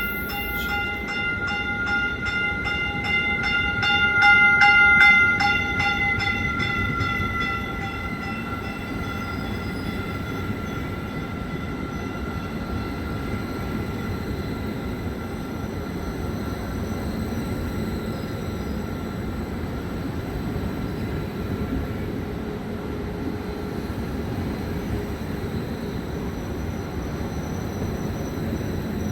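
Train passing with a steady rumble of wheels on rails, loudest about five seconds in, while a grade-crossing bell rings rapidly and fades after about ten seconds.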